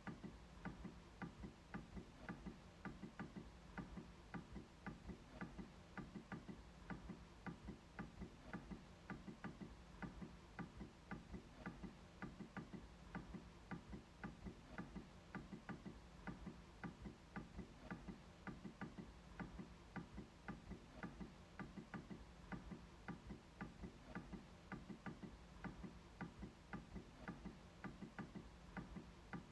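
MacBook trackpad being clicked over and over: faint, crisp clicks at about two or three a second in a fairly even rhythm.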